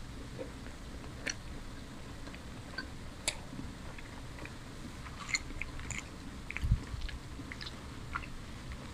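Close-miked chewing of a mouthful of food, with scattered short wet mouth clicks and smacks, and a dull low thump a little after the middle.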